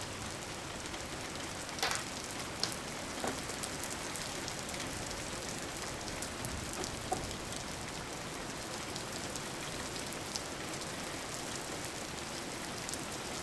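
Steady rain falling: an even hiss, with scattered sharper drop ticks, a few of them close together about two seconds in.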